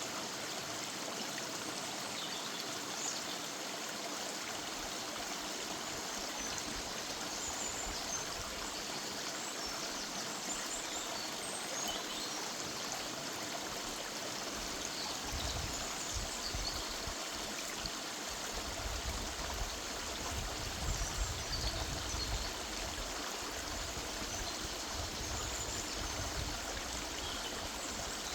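River water running steadily over rocks in woodland, a continuous rushing babble. Short high bird chirps are scattered through it, and a low rumble swells in the second half.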